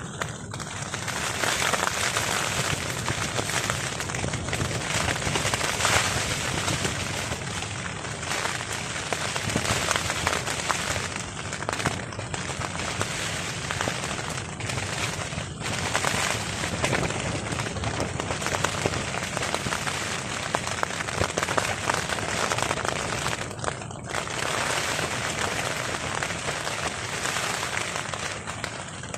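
Heavy rain hitting a tarp overhead: a dense, steady spray of many small sharp hits, swelling a little now and then with strong wind.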